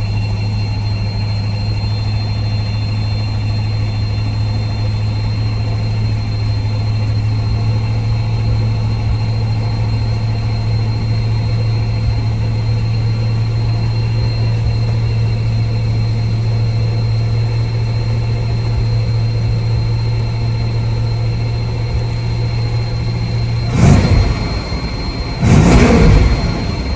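Truck engine idling steadily, then revved briefly twice in quick succession near the end.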